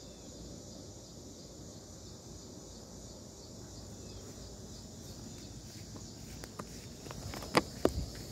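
A steady, high-pitched chorus of insects shrilling in the background, with a few sharp clicks of handling near the end.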